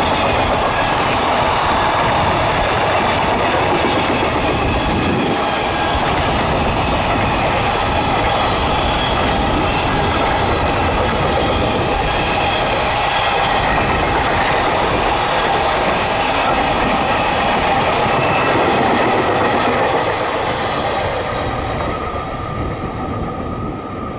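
Long container freight train passing close at speed: steady wheel-on-rail noise from the loaded flat cars, with a few held whining tones, fading over the last few seconds as the end of the train goes by.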